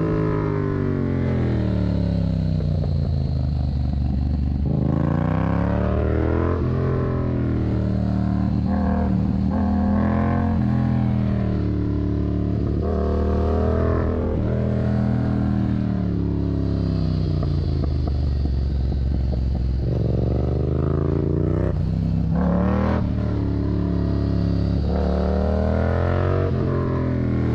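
Yamaha MT-07's parallel-twin engine through a Mivv aftermarket exhaust, heard from the rider's position under way. The revs climb and fall again and again as the bike accelerates and rolls off the throttle, with sudden short dips at gear changes.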